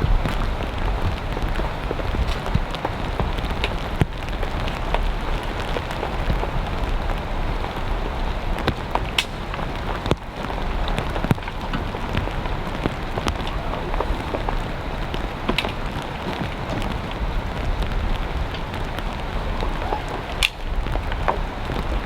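Heavy rain falling steadily in a downpour, with sharper drops striking close by now and then.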